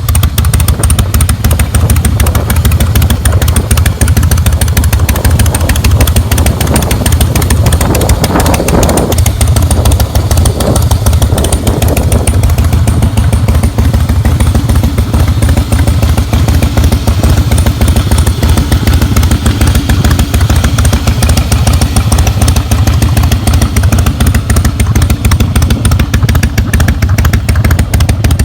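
Harley-Davidson Breakout's V-twin engine running loud through its exhaust, a steady low pulsing note, with a brief swell about nine seconds in.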